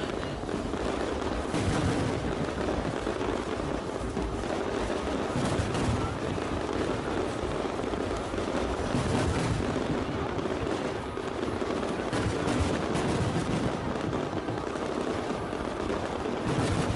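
Fireworks display: a dense, continuous run of bangs and crackles from bursting shells, with louder bangs every few seconds.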